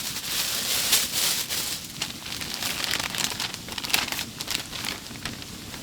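Crinkling and rustling of a wrapper or bag being handled, with many small irregular crackles.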